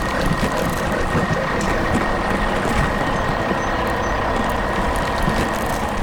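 A heavy truck engine running, a steady dense rumble with a faint high whine over it.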